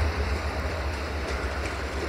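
Passenger train's coaches rolling away over the track: a steady low rumble that slowly fades, with a few faint clicks.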